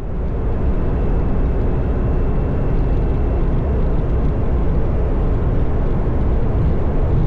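Motorcycle riding at road speed: a steady rush of engine and wind noise that fades in at the start.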